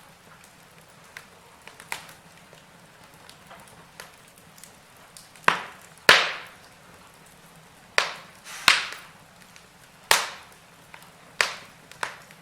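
Wood fire in a fireplace crackling: sharp pops that fade quickly over a faint steady hiss, louder and more frequent in the second half, the loudest about six seconds in.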